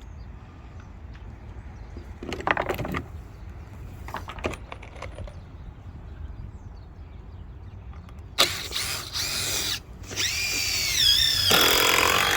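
Power drill running in two bursts, the first starting suddenly about eight seconds in and the second from about ten seconds, its pitch dipping and recovering under load as it drives screws. A brief scrape comes a couple of seconds in.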